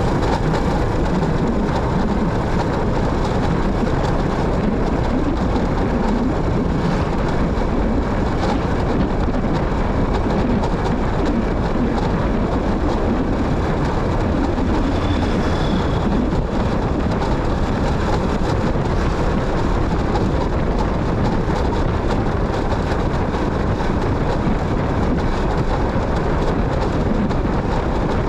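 Motorcycle on the move: steady engine and road noise with wind buffeting the microphone.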